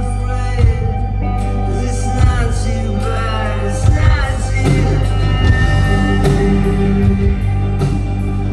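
Live rock band playing loud, with heavy bass, guitar and drum hits, and a voice singing over it in the middle.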